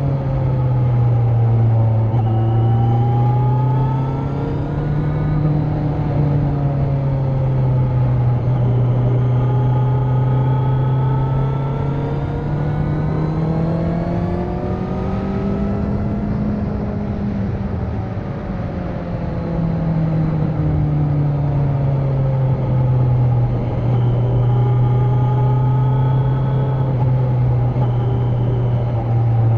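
Kawasaki Z900's 948 cc inline-four with the catalytic converter removed, running steadily under way. Its pitch rises and falls gently with the throttle, climbing highest about halfway through and then easing back down.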